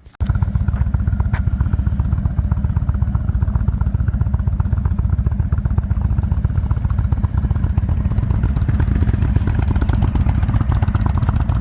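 Indian Super Chief Limited's air-cooled Thunderstroke 116 V-twin running steadily at idle with a fast, even low pulse; it comes in abruptly just after the start.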